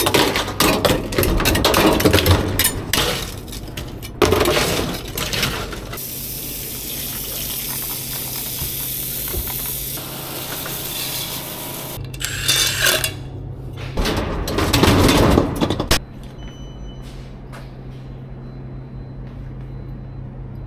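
Spraying with a steady hiss, in short separate bursts, the longest lasting about six seconds; near the end it gives way to a steady low hum.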